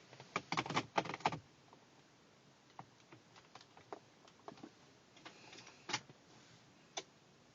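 A quick run of sharp clicks and rattles, then scattered single clicks.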